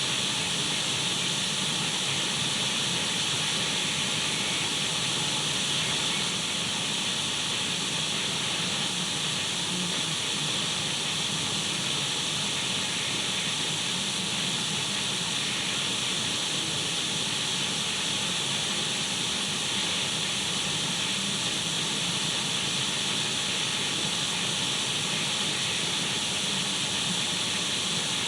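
Radio static from an untuned radio: a steady, even hiss with a bright, high edge that does not change.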